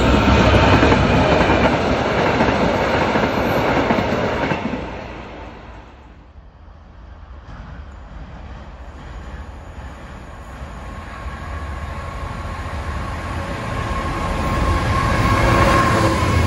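A diesel freight train rumbling past close by, fading away about five seconds in. Then a second diesel freight locomotive approaches with a steady whine that grows louder, and passes close near the end hauling engineering wagons.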